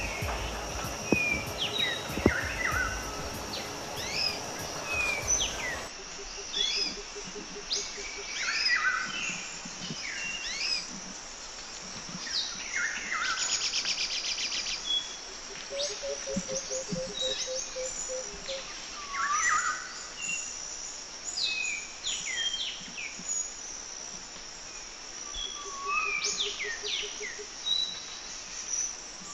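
Several birds singing and calling in woodland: short whistled notes that rise or fall, with a few quick trills, over a steady high insect drone. For the first six seconds a low rumble with a few clicks lies underneath, then cuts off.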